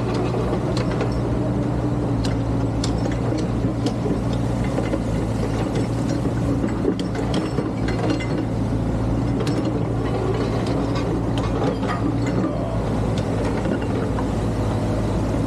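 Excavator's diesel engine running steadily, with irregular clicks and knocks from the working machine and the debris it moves.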